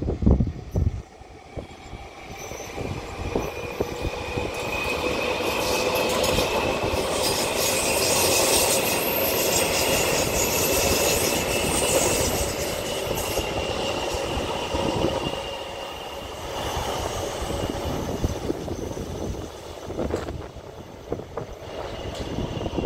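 Taipei Metro electric train running past, its wheel and rail noise building to a peak about halfway through and then easing, with a high, steady whine riding over it.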